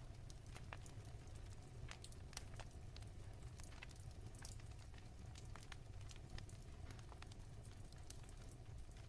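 Wood fire crackling softly, with frequent irregular sharp pops and snaps over a low steady rumble.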